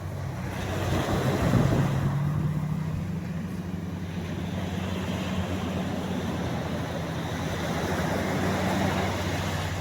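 Small waves washing up on a sandy beach, swelling about a second in and again near the end. Under them runs a steady low hum, like a distant engine.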